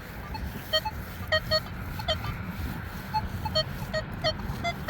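Nokta Legend metal detector giving a string of short, irregular target beeps at a few different pitches as the coil sweeps. Wind rumbles on the microphone underneath.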